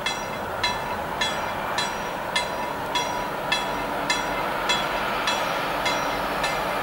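Intermodal freight train of truck trailers on pocket wagons rolling past, a steady rush of wheels on rail, with a short ringing ding repeating evenly a little under twice a second.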